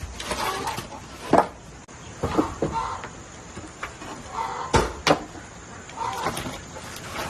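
Chickens clucking, with a few sharp knocks, two of them close together about five seconds in.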